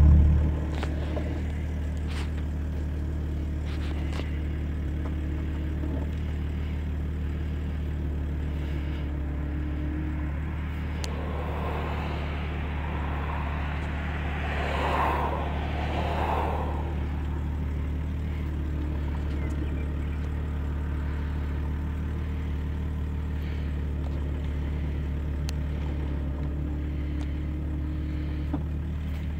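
Jeep Cherokee XJ engine idling steadily, heard from inside the cabin. About midway a rushing sound swells for a few seconds and fades.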